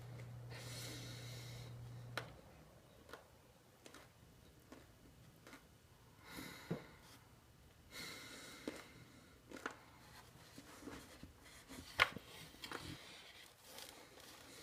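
A person eating at close range: scattered small clicks and smacks of chewing, with a few soft breaths. A low steady hum in the background drops away about two seconds in.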